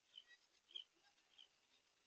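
Three faint, short, high chirps from a small animal, about half a second apart.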